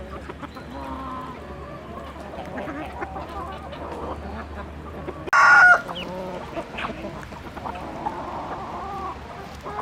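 Free-range chickens clucking, with one loud, short call about halfway through.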